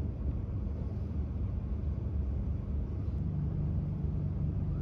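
Steady low rumble inside the carriage of an Iryo Frecciarossa 1000 high-speed train rolling into a station, with a steady low hum joining about three seconds in.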